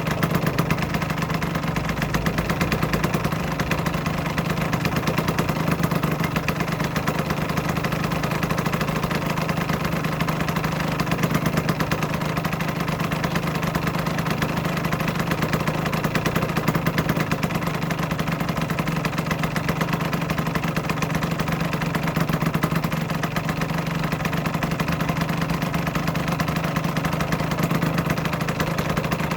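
2008 Aprilia RS125's 125 cc single-cylinder two-stroke engine idling steadily, a rapid, even pulsing that holds without change.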